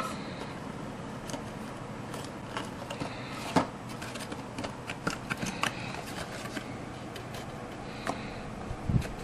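Irregular small clicks, taps and light scrapes of craft pieces being handled and fitted by hand, with a louder knock about three and a half seconds in and another near the end.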